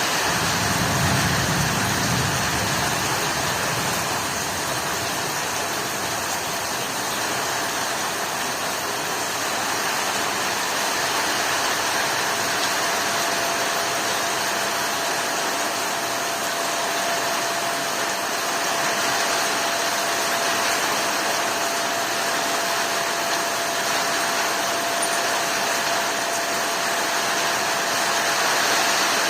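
Heavy rain pouring in a steady hiss, with a low rumble in the first few seconds.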